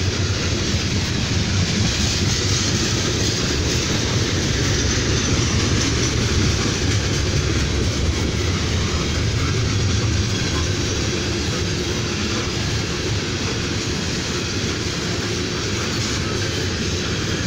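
Open-top coal hopper cars of a CSX freight train rolling past, their steel wheels running on the rails in a steady, unbroken noise.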